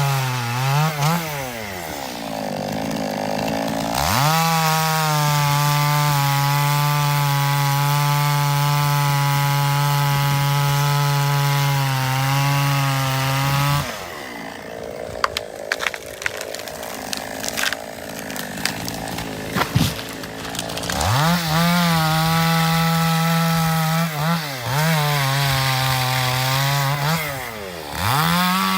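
Chainsaw engine running at high revs, its pitch dropping and climbing back as the throttle is eased and reopened. About halfway through the engine tone drops away for several seconds, leaving scattered sharp cracks and knocks, then the saw revs up again, dipping a few more times near the end.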